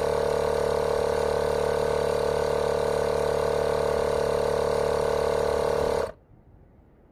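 Cordless portable air compressor running steadily while inflating a car tyre, then cutting off suddenly about six seconds in as it reaches its preset 32 psi and shuts itself off automatically.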